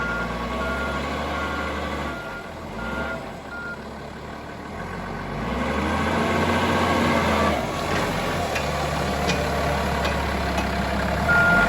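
Toyota 7FDU45 diesel forklift engine running, with its backup alarm beeping about twice a second for the first few seconds and again near the end. About six seconds in the engine load rises and falls briefly as the truck works.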